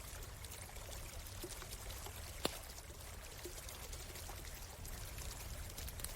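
A stream running steadily, with the faint crackle of a wood campfire and one sharp pop from the fire about two and a half seconds in.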